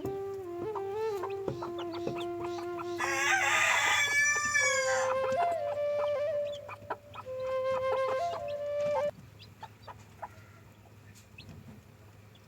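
Rooster crowing once, starting about three seconds in and lasting about two seconds, among clucking chickens.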